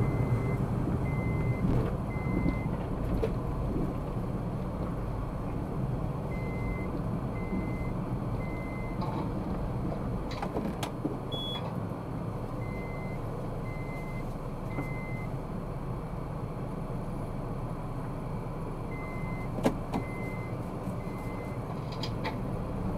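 Car engine and road noise inside the cabin, steady and low. Over it, a group of three short electronic beeps at one pitch repeats about every six seconds.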